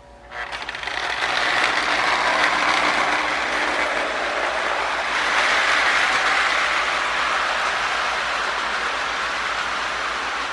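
Marx 898 toy locomotive, fitted with a Marx 1666 motor and smoke unit, starting off and running on its track: a steady whir of motor and gears with wheel clatter that sets in about half a second in and builds over the first second.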